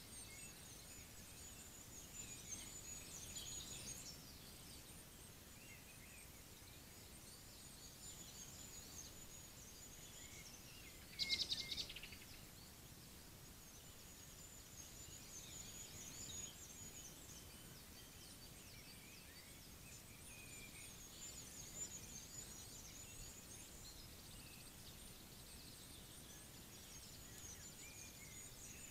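Faint distant birdsong, thin wavering high notes scattered through, with one short, louder high trill a little after eleven seconds in, over the steady hiss of a trail camera's microphone.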